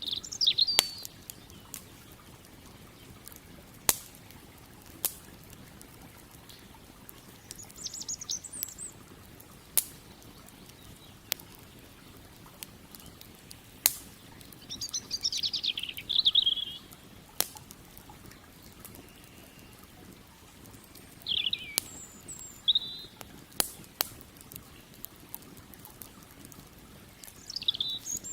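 Wood fire crackling, with a sharp single pop every two to four seconds. Between the pops a small songbird sings short, high twittering phrases every five to seven seconds.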